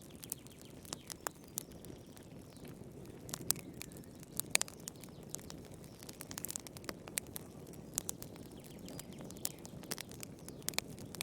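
Wood fire burning, with sharp, irregular pops and crackles over a steady low rush of flames.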